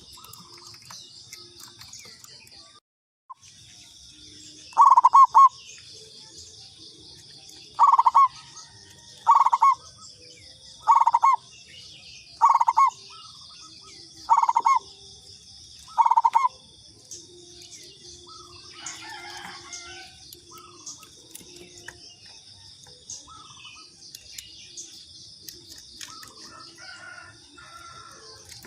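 Zebra dove (perkutut) cooing: seven loud, short phrases, each about half a second, repeated every one and a half to three seconds, then stopping. Over a steady high insect trill.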